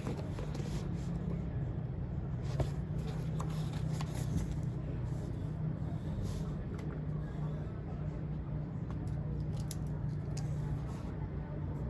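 Scattered light clicks and paper-like rustles from desk work over a steady low hum of room or traffic noise.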